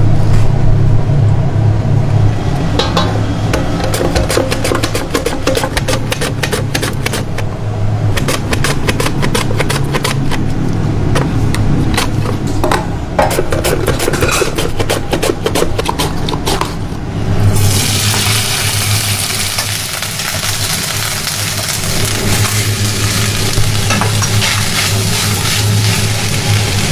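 Kitchen cutting: a quick, uneven run of sharp taps and clicks as onions are cut. About 17 seconds in it gives way to steady sizzling, diced onions frying in a pan as they are stirred with a spatula, all over a low steady hum.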